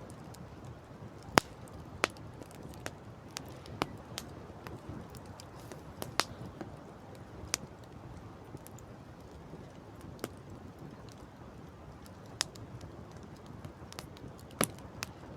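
Wood campfire crackling: irregular sharp pops and snaps, a dozen or so, the loudest about a second in and near the end, over a steady low rushing background.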